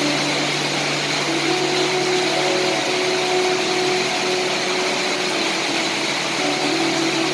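Steady rain, a dense even hiss with no let-up. Faint held low tones change pitch every second or two underneath it.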